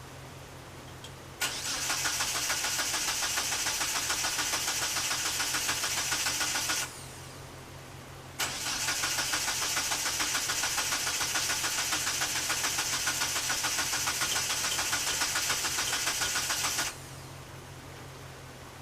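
Starter cranking the 1997 Eclipse GSX's turbocharged four-cylinder engine in two attempts, about five and eight seconds long with a short pause between. Each is a steady, even rhythmic churn that never catches and runs: a crank-no-start.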